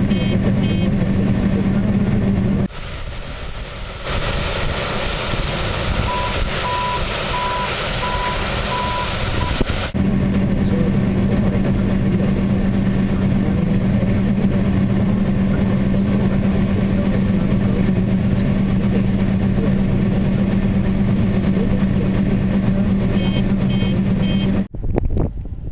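Engine of harvest machinery running with a steady drone and a constant low hum. About three seconds in, it gives way to a quieter stretch in which a series of five short, evenly spaced beeps sounds. The drone then returns and cuts off abruptly near the end.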